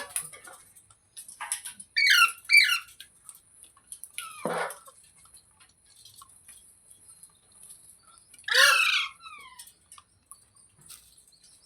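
A pet parrot calling in short downward-sliding squawks: a few quick calls about two seconds in, a harsh rasping screech at about four and a half seconds, and the loudest squawk near nine seconds.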